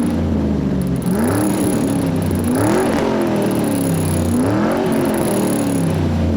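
Car engine revving up and down again and again, its pitch climbing and falling every second or two over a steady low drone.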